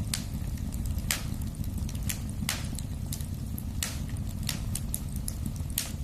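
Wood fire in a fireplace crackling: sharp pops about once a second, with fainter crackles between, over a steady low rumble.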